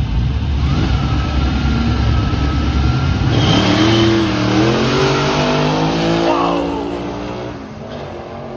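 Drag car's engine at full throttle down the strip: a deep rumble, then the pitch climbs and slowly falls away, fading near the end. The engine blew up on this pass.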